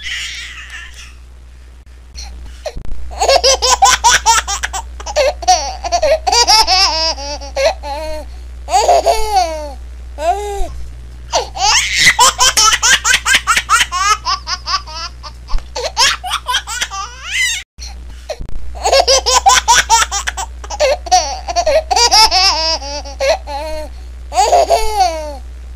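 A laughing ringtone of high-pitched laughter in rapid bursts, the same laugh repeating as a loop about every seven to eight seconds, over a steady low hum.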